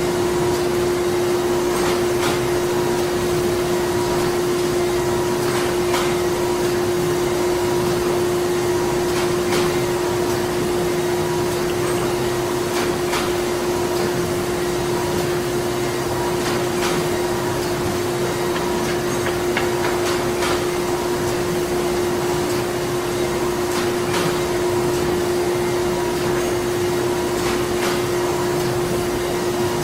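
Printing-plant machinery running: a steady drone with one strong hum tone, with scattered clicks and knocks at irregular intervals.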